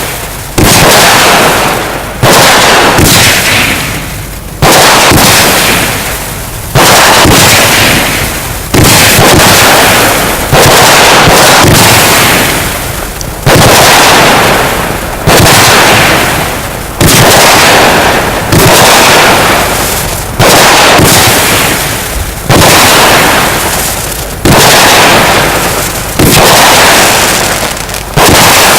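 Firework battery firing shot after shot, about one every two seconds: each a sudden loud burst that fades away over a second or so.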